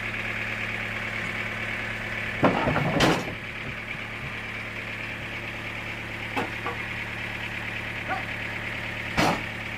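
Sawmill machinery running with a steady hum. A loud clatter of knocks comes about two and a half seconds in, and another sharp knock near the end.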